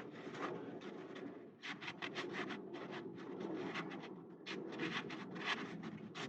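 Irregular rubbing and scraping strokes of a cloth wiping up spilled brake fluid around the freshly bled rear brake, checking it for leaks.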